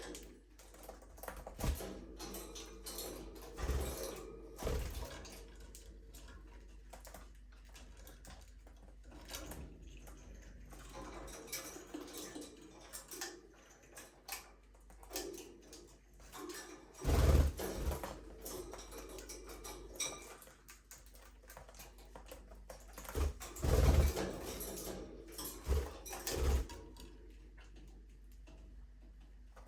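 Budgerigars in a small aviary, with frequent small clicks and taps and soft chatter. Several louder low thumps stand out, the two strongest a little past the middle and about four-fifths of the way through.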